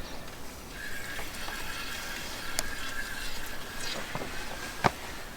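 Water splashing and trickling as a hooked cutthroat trout is brought in and handled at the lake's edge, with a faint steady high whine and a sharp click just before the end.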